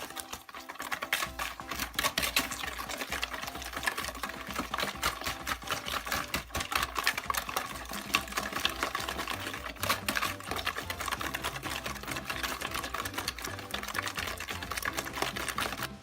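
Hand wire whisk beating eggs, sugar and lemon zest in a bowl: fast, steady clicking of the wires against the bowl.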